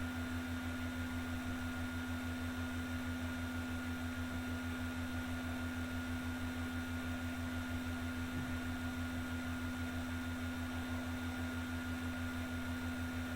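Steady electrical hum: a constant low tone with a fainter higher whine above it and a lower throb pulsing rapidly and evenly underneath.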